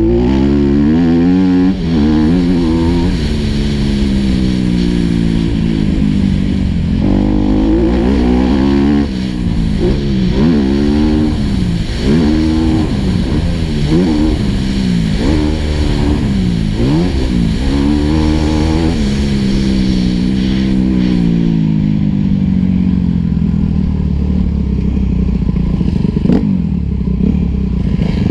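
Single-cylinder four-stroke motocross bike engine, heard on board, revving up and down again and again as the throttle is opened and shut, with wind noise. After about twenty seconds the revs settle into a lower, steadier run and the wind noise fades as the bike slows.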